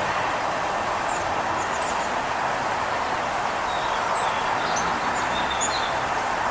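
Small birds chirping briefly several times over a steady rushing background noise, like distant traffic.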